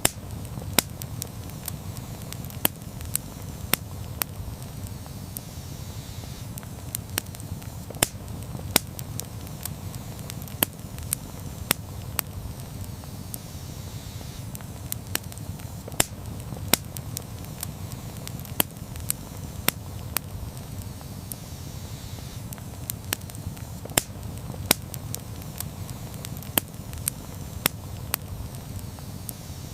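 Wood campfire burning, with a steady low rumble of flames and frequent sharp, irregular crackles and pops.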